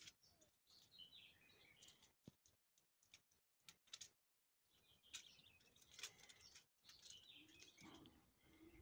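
Near silence, with faint bird chirps about a second in and again near the end, and a few soft scratches.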